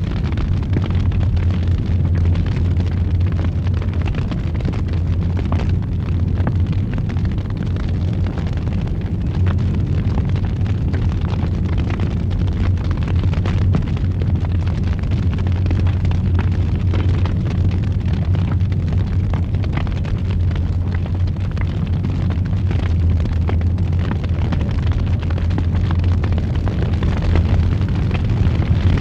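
Fire burning in a fireplace: a steady, deep roar with faint crackles and pops scattered through it.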